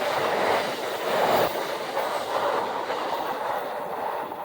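Amtrak train passing, its wheels rumbling and clicking over the rails, the rushing noise loudest about a second in and then slowly dying away.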